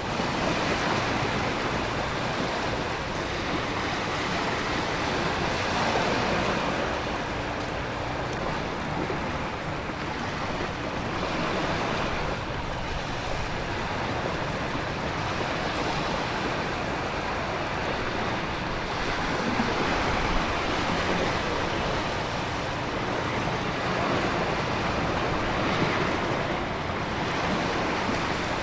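Storm ambience: dense ocean surf and wind with heavy rain, the waves swelling and easing every few seconds.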